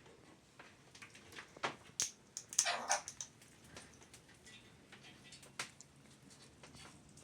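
Parrots calling and clicking: one short, harsh squawk about two and a half seconds in, with scattered sharp clicks and taps around it.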